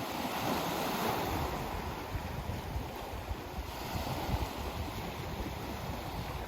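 Sea waves washing onto the shore, swelling about a second in and again near the end, with wind rumbling on the microphone.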